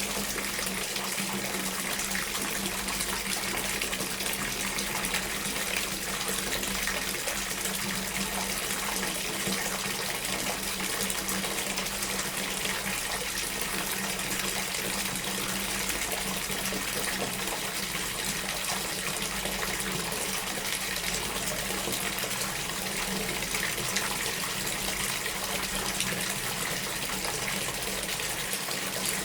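Water running steadily in a continuous stream, with a faint low hum under it.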